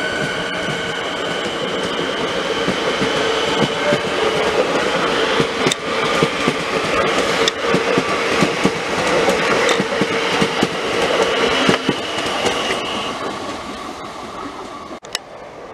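Electric suburban train running past: a steady high whine at first, then the wheels clicking over rail joints under a constant rumble. It fades away near the end.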